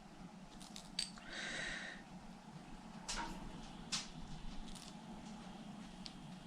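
Faint clicks, taps and a short scrape of small metal engine parts and tools being handled while a nitro RC engine is taken apart, over a low steady hum.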